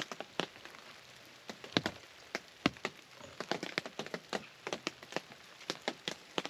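Rain and melting ice dripping onto the roof of a hunting blind: irregular sharp ticks and taps, several a second, over a faint hiss.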